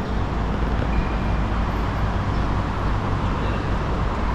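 Steady low rumbling background noise, even throughout, with no distinct events standing out.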